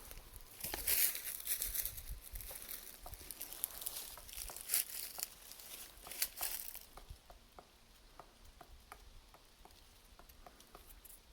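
Woodpecker pecking at a tree: a run of sharp, separate taps, about three a second, most clearly heard in the second half. Rustling and crackling noise is louder over the first half.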